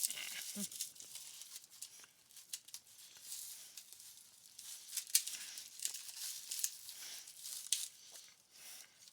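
Crackly tearing and rustling as a piece of stuffed cheesy bread is pulled open by hand, a run of small irregular crackles.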